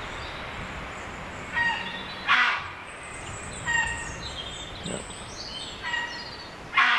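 Birds calling: a short call repeated about every two seconds, each followed by a louder harsh call, over thin high chirps of small songbirds.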